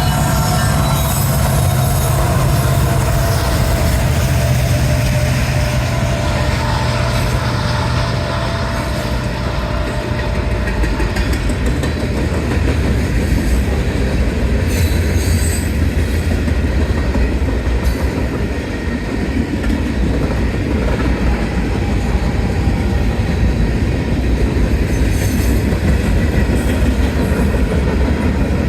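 Norfolk Southern freight train passing close by. The diesel locomotives' engines run low for the first several seconds, then the freight cars roll past with a steady rumble, wheel clatter over the rail joints and thin wheel squeal.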